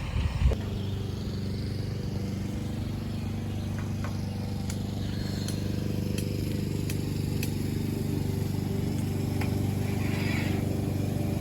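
A vehicle's engine running with a steady low hum that grows slightly louder, with a few faint clicks over it.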